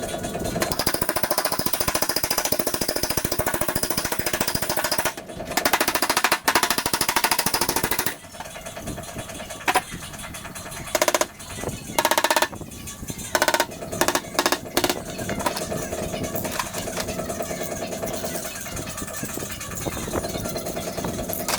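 A rapid rattling power tool working on car body sheet metal, running steadily, then stopping and starting in several short bursts partway through before running on again.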